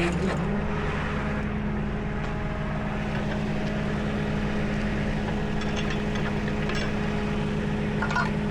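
Tow truck engine idling steadily, an even low hum with no change in speed.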